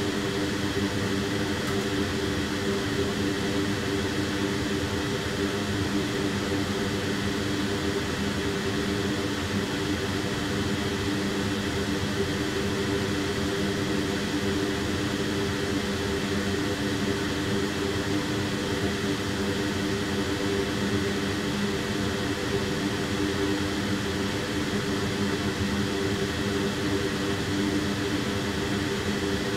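Steady whir of a small electric fan or motor with a low hum, holding one level.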